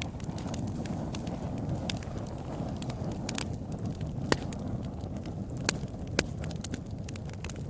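Wood fire burning in a fireplace: a steady low rumble of flame with irregular sharp crackles and pops, the loudest pops coming about three and a half, four and a half, five and a half and six seconds in.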